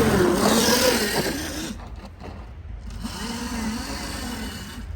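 Dirt bike motor under throttle, its pitch wavering up and down, easing off about two seconds in and picking up again about a second later.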